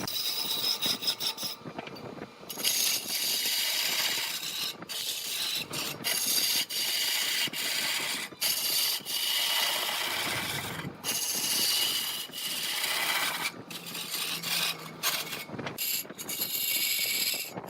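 A turning tool cutting wood on a lathe: a high, rasping hiss, broken by many short breaks as the tool lifts and bites again.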